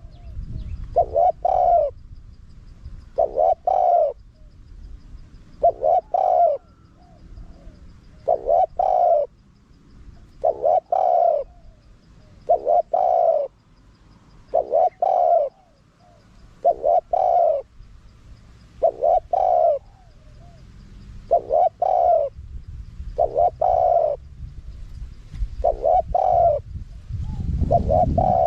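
Spotted dove cooing in its wild-bird call, a short multi-note phrase repeated about every two seconds, about thirteen times.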